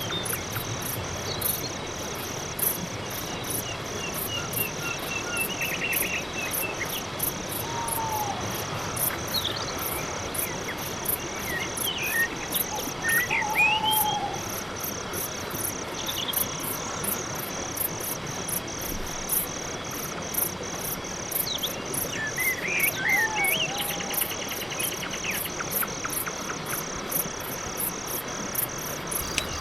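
Night insect chorus: crickets chirping in a steady, evenly pulsing rhythm, with a few short whistled calls from other animals scattered through it.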